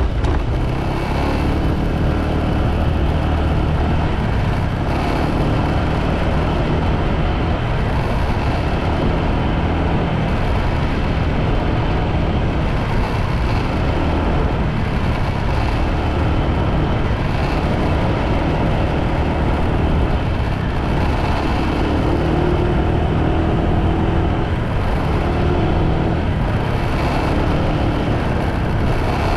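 Motorbike running steadily at riding speed, with continuous engine, road and wind noise.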